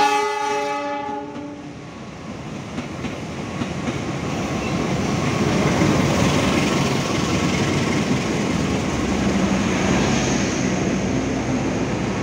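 A diesel train horn sounds for about a second and a half, then a KAI CC206 diesel-electric locomotive hauling passenger coaches passes close by. The engine and wheel-on-rail noise builds and stays loud as the locomotive and coaches go past.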